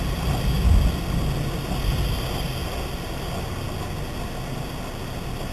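Car running: a low, steady engine and road rumble, loudest in the first couple of seconds.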